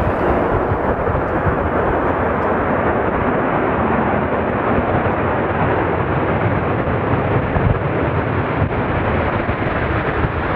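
Jet airliner's engines giving a loud, steady rushing roar as the aircraft passes close by.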